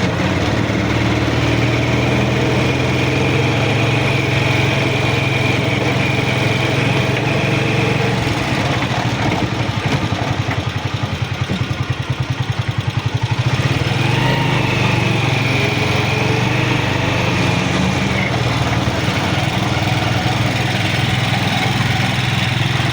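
A vehicle engine running close by, steady throughout, with a faster pulsing about halfway through and a faint high whine.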